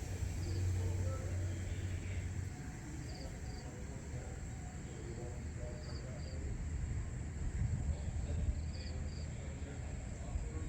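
Early-morning outdoor ambience: a short, high double chirp repeats about every three seconds over a steady high insect-like hiss, with a low rumble underneath, strongest in the first couple of seconds.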